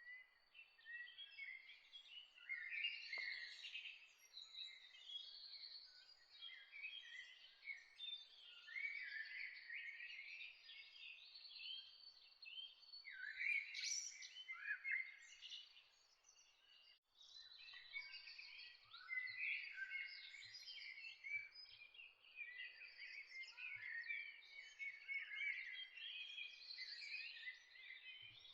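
A chorus of many songbirds chirping and singing at once, with calls overlapping without pause except for a brief lull about two-thirds of the way through.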